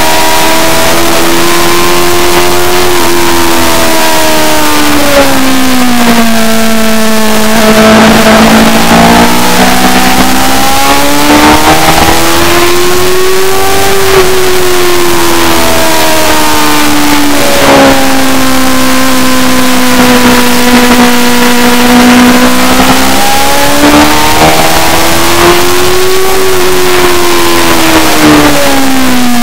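Loud racing motorcycle engine running continuously, its pitch sweeping up and down over several seconds at a time as the revs rise and fall through the lap.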